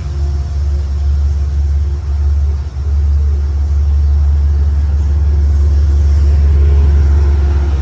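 Steady low vehicle rumble, with a faint steady hum above it and a brief dip a little under three seconds in.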